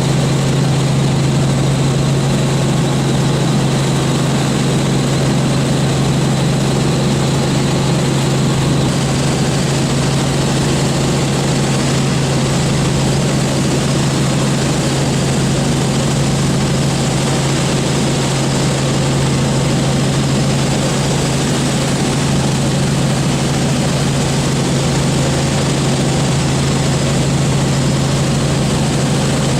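Robinson R44 Raven II helicopter running steadily, its Lycoming six-cylinder piston engine and rotors making a loud, unchanging sound with a strong low hum.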